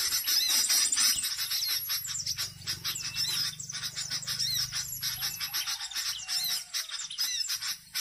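Small birds chirping in rapid, high-pitched twitters, many short notes a second. A faint low hum runs through the middle.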